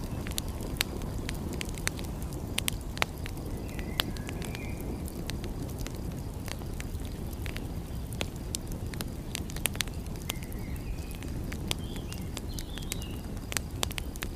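Wood fire crackling, with irregular sharp pops over a steady low rushing bed. A few short, faint high chirps come about four seconds in and again between ten and thirteen seconds.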